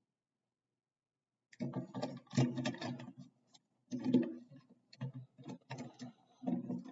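Plastic clicking and rubbing as an action figure's hand and parts are handled and pressed back on, in irregular bursts after a second and a half of silence.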